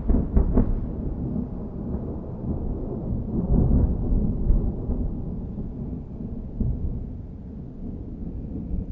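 Thunder rolling and rumbling after a strike, with a few sharp crackles in the first second, a swell about four seconds in, then a slow fade.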